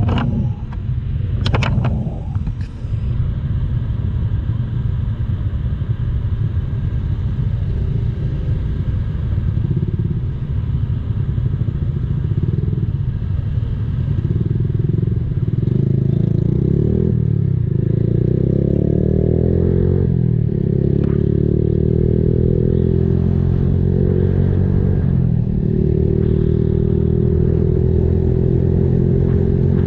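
Honda Blade motorcycle with an aftermarket racing exhaust, its single-cylinder four-stroke engine running as it is ridden. The engine's pitch rises and falls with changes of speed in the second half. There are a couple of sharp knocks in the first two seconds.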